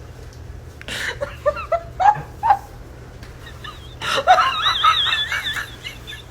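A person laughing: a few short, high-pitched bursts, then a longer wavering laugh about four seconds in.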